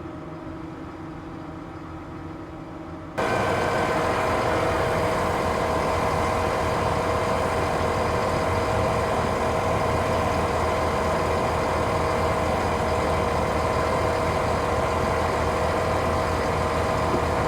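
Farm machinery engine running steadily. About three seconds in, the sound jumps abruptly to a louder, steady engine drone with a strong hum that holds without change.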